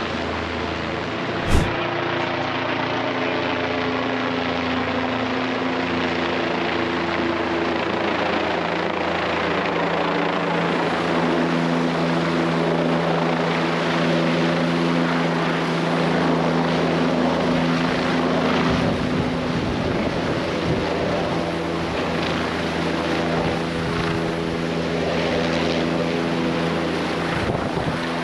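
Helicopter flying close by, its rotor and turbine giving a steady drone with several held tones that grows louder about ten seconds in. A single sharp click sounds about a second and a half in.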